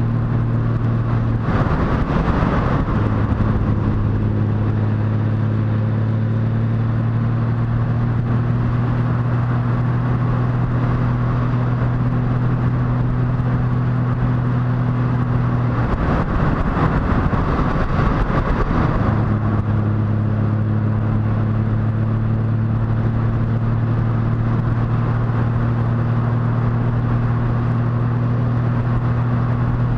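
Motorcycle engine running steadily at cruising speed, a constant low hum over wind and road noise. Twice, about two seconds in and again about sixteen seconds in, a rush of noise lasting a couple of seconds drowns the engine's hum.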